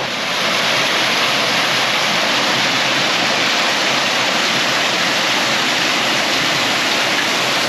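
Steady rush of splashing water, starting abruptly and holding even.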